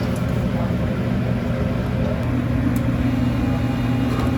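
A machine running with a steady low hum, its pitch stepping slightly up about two seconds in.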